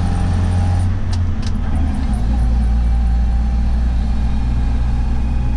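1972 Land Rover Series III's 2.5-litre petrol engine running under way at road speed, heard from inside the cab. Its low note drops to a lower, stronger pitch about two seconds in, just after a few light clicks.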